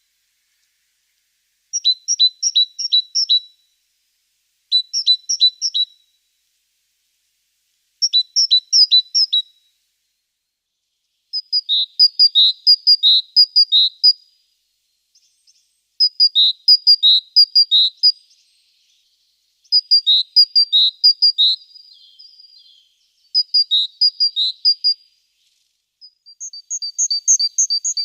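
A small songbird singing: about eight short phrases of quick, high, repeated notes, each a second or two long, with brief pauses between them.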